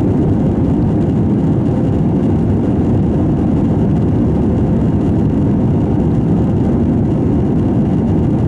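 Airbus A321 airliner cabin noise in flight: a steady, even rumble of engine and airflow noise heard from inside the passenger cabin.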